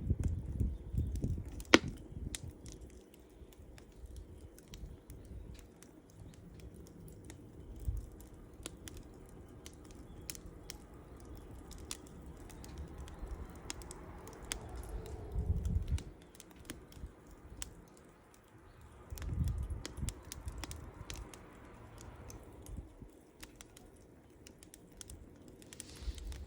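Wood fire crackling, with scattered sharp pops and one loud snap about two seconds in, and low rumbles now and then.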